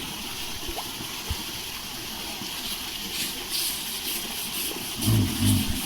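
Steady rush of water during an elephant's poolside bath, with a brief low double rumble about five seconds in.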